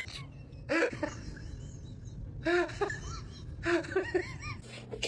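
Three short bursts of quick vocal sounds, each rising and falling in pitch, spaced about a second or so apart.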